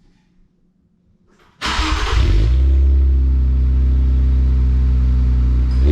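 2018 Infiniti Q50 starting up through a new MBRP 3-inch cat-back exhaust. About a second and a half in, the engine catches with a sudden loud flare, then settles into a steady idle.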